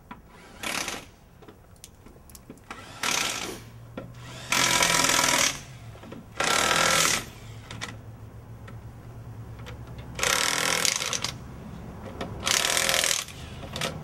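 Impact wrench running in six short bursts of about a second each, spinning wheel lug nuts on an old Toyota pickup, with a low steady hum beneath some of them.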